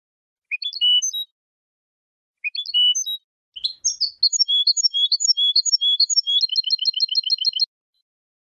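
European goldfinch singing: two short twittering phrases, then a longer run of repeated notes that ends in a fast trill of about ten notes a second and stops abruptly.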